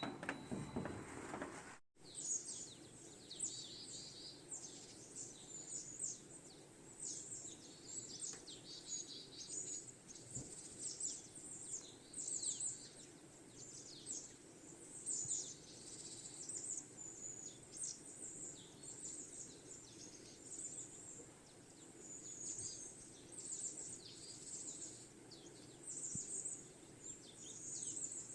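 Many small birds chirping and twittering, a dense run of short high calls overlapping one another. A brief rustling sound comes before them, cut off about two seconds in.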